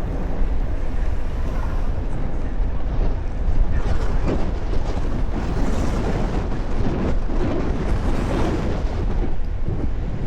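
Wind rumbling steadily on the microphone of a Onewheel rider on the move, with a louder rush of noise in the middle that fades near the end.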